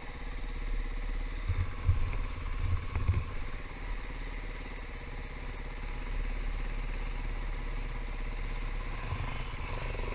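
KTM 500 EXC dirt bike's single-cylinder four-stroke engine idling steadily, with a few louder low pulses between about one and a half and three seconds in.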